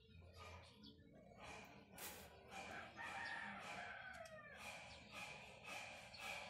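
Faint bird calls in the background, with one longer call about three seconds in that falls in pitch.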